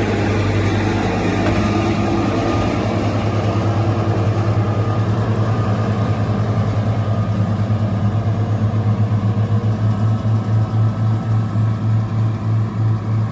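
Motor grader's diesel engine running with a steady low drone that, in the second half, turns into an even throb of about three pulses a second.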